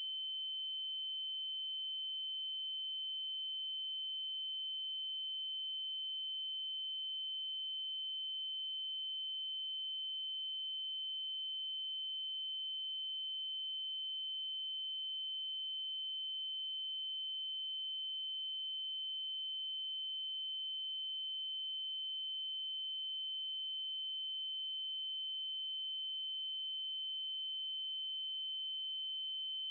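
Synthesized 3072 Hz triangle-wave tone, held steady and unchanging: a single high-pitched pure-sounding note with faint overtones.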